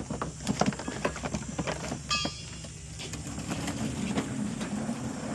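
Scattered knocks and clatter, then a steady low rumble like a vehicle engine running from about halfway in.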